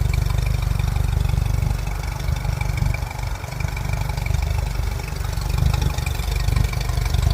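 2023 Mercury 60 hp Command Thrust four-stroke outboard running steadily at idle after routine service.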